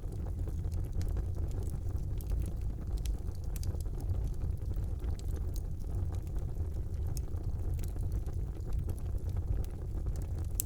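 Wood fire burning in a fireplace: a steady low rumble of the flames with frequent small crackles and pops of burning wood.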